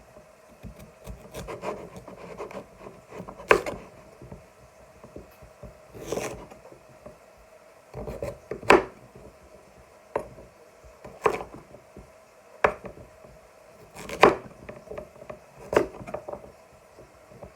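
Knife cutting through raw sweet potato on a chopping board: slow sawing strokes, each ending in a sharp knock of the blade on the board, every second or two.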